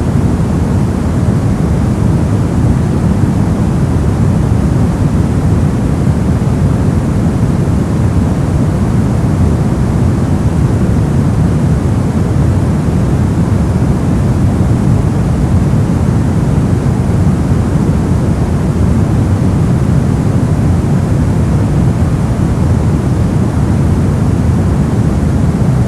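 Steady, unbroken white-noise sleep sound, a deep, even rumbling hiss heavier in the low end than the highs, with no changes or events.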